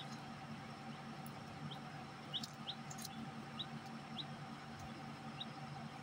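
Short, high chirps from small caged birds, about eight scattered single calls, over a steady low hum.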